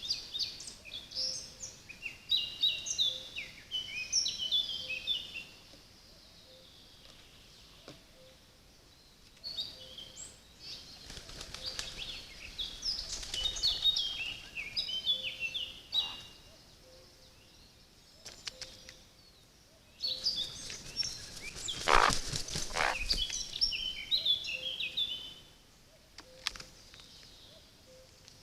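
Small songbird singing in three bouts of rapid, high twittering chirps, each a few seconds long with pauses between. During the third bout, about two-thirds of the way in, there is a loud flurry of rustling that fits wings flapping close by.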